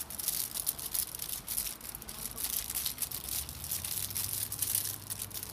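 Aluminium foil crinkling as it is folded and pressed shut around a slice of toast, an irregular run of crackles.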